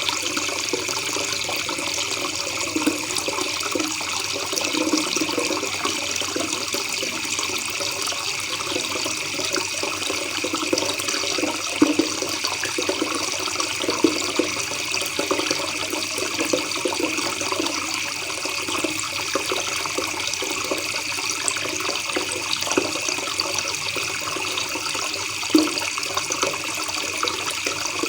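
A river's water babbling steadily, with a few brief louder splashes.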